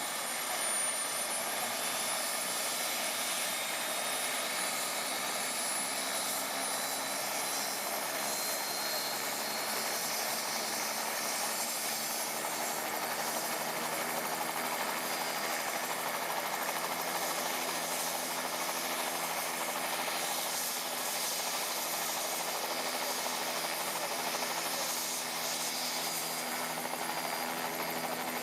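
Helicopter turbine engine and rotor running steadily, a continuous roar with a thin high whine that climbs slightly in pitch during the first ten seconds.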